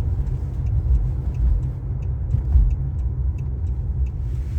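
Steady low rumble of a car heard from inside its closed cabin, the car's own engine and road noise, with faint scattered ticks.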